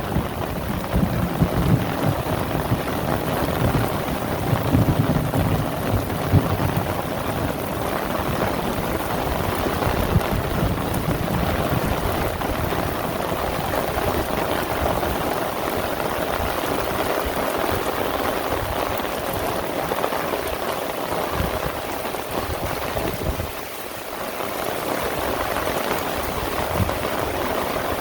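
Heavy rain falling steadily, a dense continuous patter, with a low rumble in the first few seconds and a brief lull just before the end.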